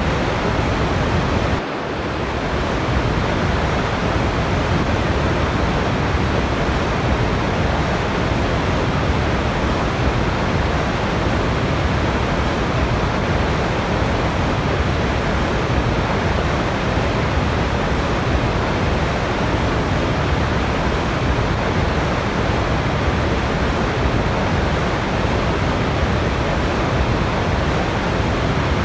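Waterfall: a steady, even rush of falling water, with a brief dip in level about two seconds in.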